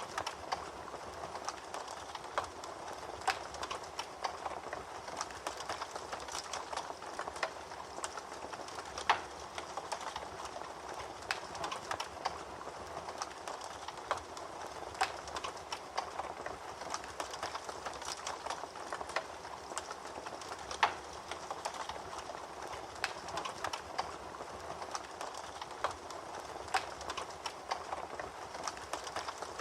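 Fire crackling in a fireplace: a steady hiss with irregular small snaps and pops, and two louder pops, one about a third of the way in and one about two thirds in.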